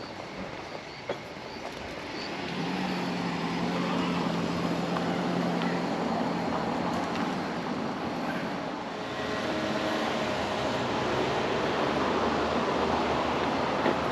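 Motor vehicles driving past on a street, one after another. One swells in with a steady engine hum about two seconds in, and another comes by in the second half.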